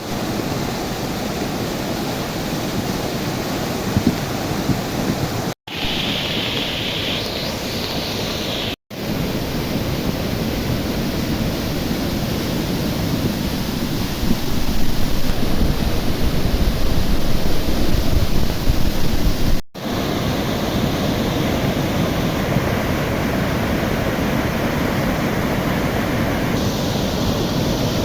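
Steady rushing of a river in flood, its water running high and fast. The sound breaks off sharply three times, at each cut between clips.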